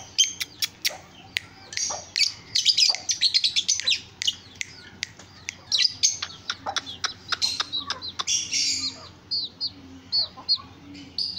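Small birds chirping: quick runs of short, high cheeps, with a few sharp clicks among them.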